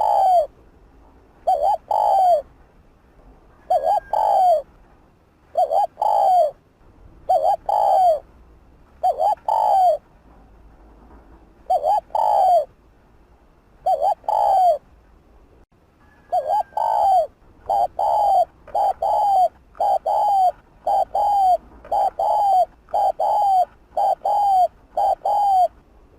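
Spotted dove cooing: a string of short coo notes, spaced a couple of seconds apart at first, then quickening to about one a second in the second half.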